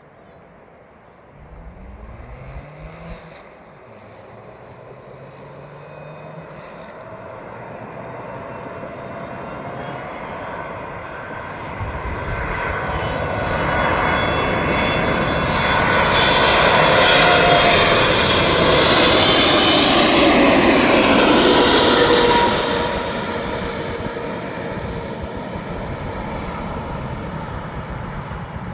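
Jet aircraft passing close by: its engine noise builds for about fifteen seconds to a loud peak, its whining tones drop in pitch as it goes past, and it then fades off.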